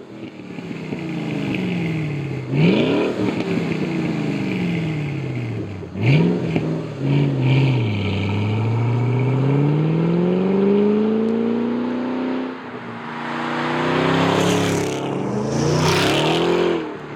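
Supercharged 5.8-litre V8 of a 2013–14 Ford Mustang Shelby GT500 through a Flowmaster American Thunder axle-back exhaust with Outlaw Series mufflers, sounding aggressive. The engine is revved up and falls back twice, then makes a long pull rising in pitch, and after a short drop rises again near the end.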